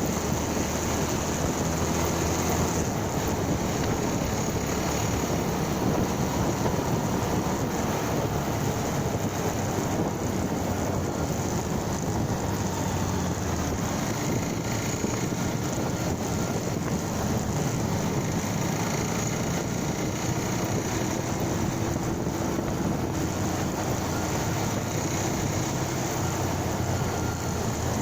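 Motorcycle engine running steadily while riding, mixed with wind and road rush.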